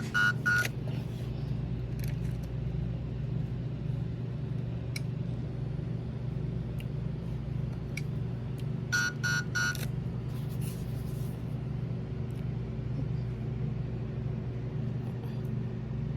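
Checkout card terminal beeping: three quick electronic beeps near the start and three more about nine seconds in, over a steady low hum and a few faint clicks.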